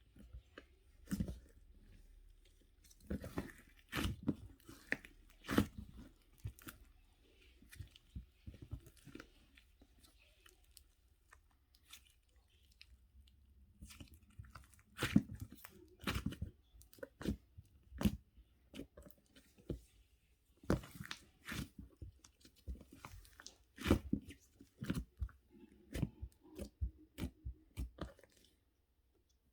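Close, irregular crunches and sharp clicks, unevenly spaced, with a quieter stretch about a third of the way through.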